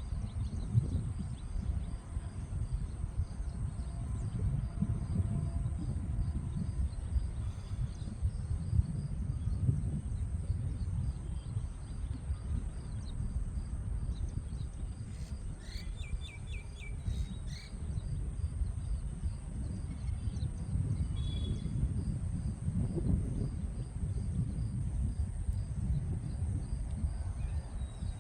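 Outdoor nature ambience: a steady low rumble like wind on the microphone, a constant high insect drone, and a few bird chirps about halfway through.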